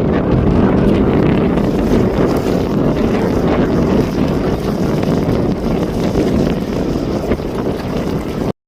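Jet airliner engines running with a loud, steady roar, wind buffeting the microphone; the sound cuts off suddenly near the end.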